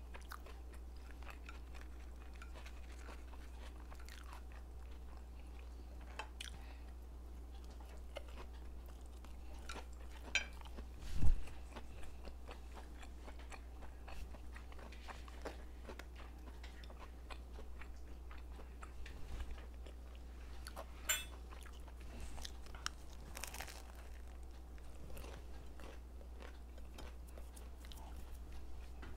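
Close-up chewing and biting of food, with scattered small clicks and one low thump about eleven seconds in, over a steady low hum.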